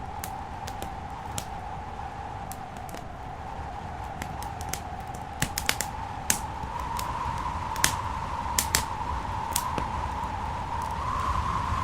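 Wood fire in a fireplace crackling, with scattered sharp pops coming irregularly and the loudest in a cluster around the middle. Under them runs a steady whistling drone that swells slightly near the end, with a low rumble.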